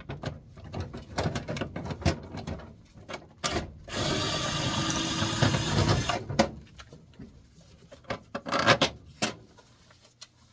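Hands and tools working on a furnace blower motor assembly: scattered knocks, clicks and scrapes, broken in the middle by a steady noise lasting about two seconds.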